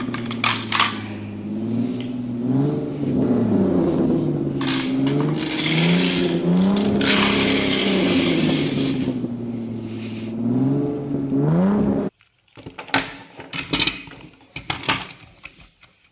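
Toy car running with a motor-like engine sound whose pitch rises and falls over and over, cutting off suddenly about twelve seconds in; a few scattered clicks and knocks follow.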